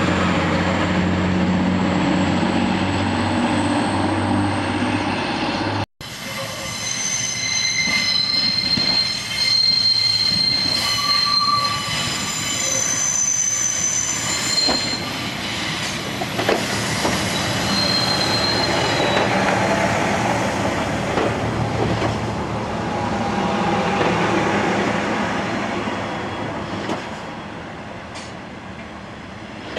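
A TransPennine Express diesel multiple unit's engine runs with a steady hum as the train moves past. After a cut about six seconds in, a Northern Class 144 Pacer railbus arrives, its wheels squealing in high steady tones. The squeal gives way to a fading rumble as the train comes to a stand.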